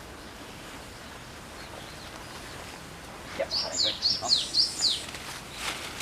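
A small songbird singing one short, rapid phrase of about six high notes, each sweeping downward, a little past the middle, over a faint steady outdoor hiss.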